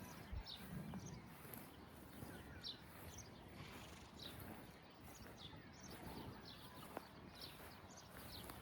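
Birds calling faintly: short, high, downward-sliding chirps repeated about once a second over quiet outdoor background noise.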